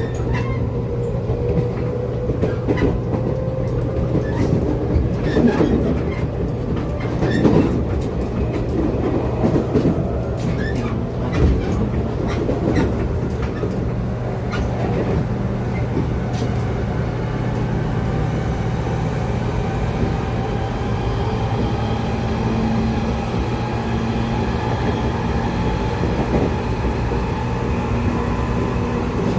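Interior running sound of a JR Kyushu 811 series electric train's motor car (MoHa 811-1) gathering speed. The traction motor whine rises slowly in pitch over a steady low rumble. Wheels click over rail joints through the first half, and the clicks thin out later.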